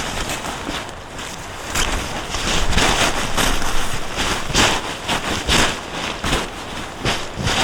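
Strong snowstorm wind blowing in gusts, buffeting the microphone with short thumps every second or so.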